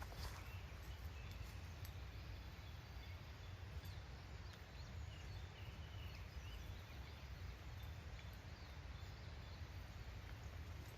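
Faint outdoor ambience: a steady low rumble with scattered short bird chirps now and then.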